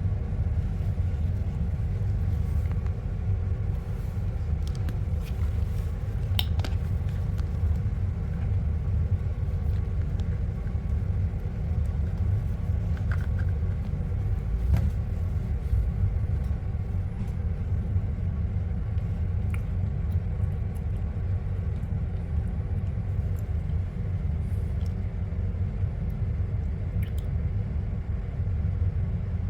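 Steady low rumble of a double-decker bus in motion, heard from inside the passenger deck, with a few faint scattered clicks and rattles.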